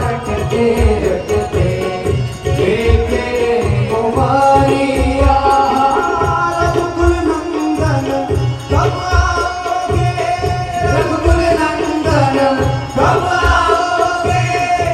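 Devotional bhajan: voices singing long, gliding notes over a steady drum beat with small jingling percussion.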